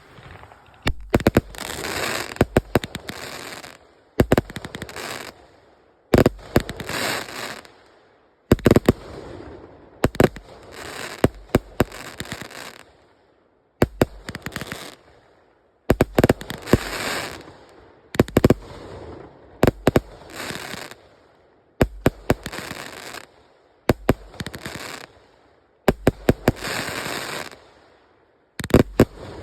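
A 100-shot firework cake firing in a steady sequence: about every two seconds a quick cluster of sharp launch bangs, each followed by about a second of fizzing crackle.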